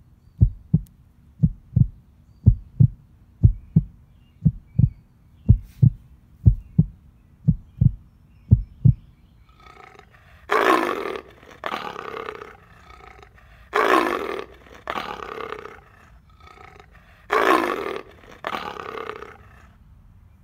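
Dramatic sound effects: a low heartbeat thudding in pairs, about one beat a second, for some nine seconds, then a large beast roaring three times, each roar followed by a second, lower growl.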